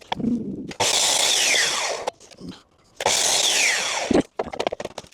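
Two short power-saw cuts through wood, each about a second long and carrying a whine that falls in pitch, with light knocks of handling between them.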